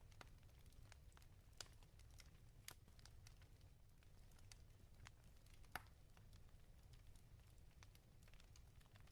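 Wood fire crackling in a fireplace, quiet: scattered sharp pops and snaps, the loudest a little before six seconds in, over a low steady rumble of the burning fire.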